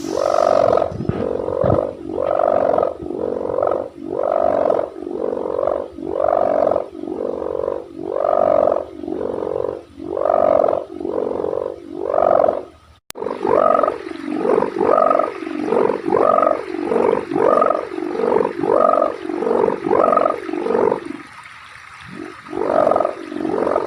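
Sendaren kite hummer with a thick packing-strap ribbon, droning in pulses that swell and fade about once a second. After a brief break about halfway the pulses come faster, nearly two a second, with a short lull near the end. The thick strap is chosen to give the drone a deeper, bassier tone.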